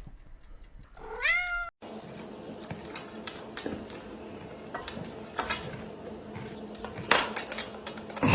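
A domestic cat meows once, a single pitched call that rises and then falls. The sound then cuts abruptly to a low steady hum with scattered clicks and knocks, the loudest near the end.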